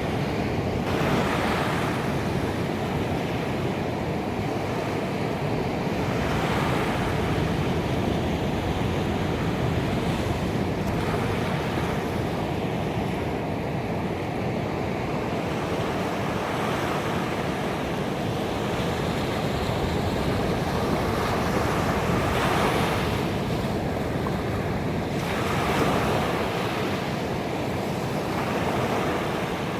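Ocean waves breaking on a beach, a continuous wash of surf with swells that rise and fall every few seconds, a stronger break a little past the middle and another near the end.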